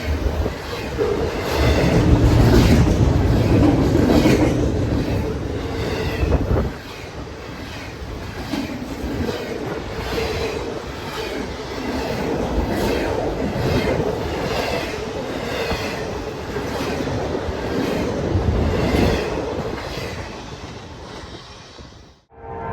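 Train cars rolling past on the main line, wheels clicking rhythmically over rail joints, with a faint steady ringing from the wheels. The sound cuts off suddenly just before the end.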